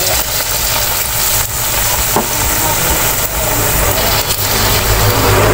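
Flour-battered tempeh sizzling as it deep-fries in hot oil in a wok, with a few light clicks of a metal spoon against the pan as pieces are put in. A low steady hum runs underneath.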